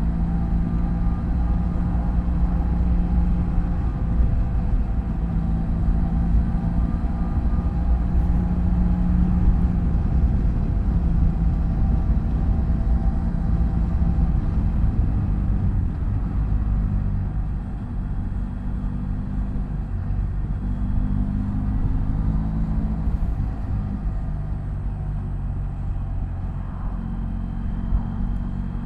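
BMW F800GS parallel-twin motorcycle engine running under way, with low wind and road rumble. The engine note shifts in pitch several times and eases off a little past halfway.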